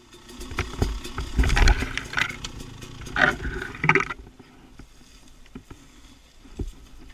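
Dirt bike engine running under throttle with wind rumble on the microphone. It drops to a much quieter, low running sound about four seconds in.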